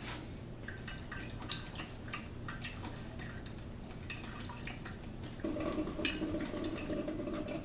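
Drip coffee maker running a descaling brew cycle with a vinegar and water mix: irregular small pops and drips, with a steady hum coming in about five and a half seconds in.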